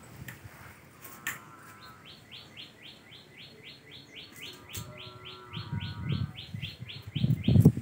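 A bird calling a fast run of short, repeated down-slurred notes, about four a second for some five seconds, with lower wavering whistled notes in between. A couple of low, muffled handling noises come near the end.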